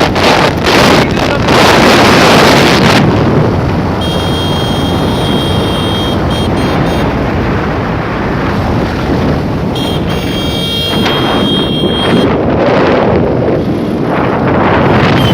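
Wind rushing and buffeting over the microphone of a moving bike, with vehicle running noise underneath. The buffeting is gustier for the first few seconds, then steadier. A thin high tone comes in twice, about four and ten seconds in.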